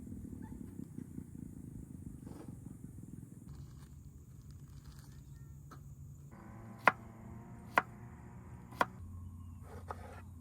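Low steady rumble with three sharp clicks or knocks about a second apart in the second half, and a fainter one near the end.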